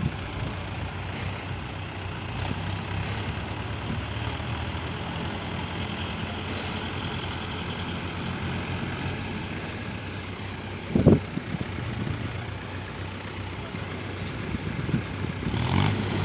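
Diesel tractor engine of a Mahindra 585 XP Plus running steadily under load while pulling a fully loaded trolley. There is a brief loud thump about eleven seconds in, and the engine grows louder near the end.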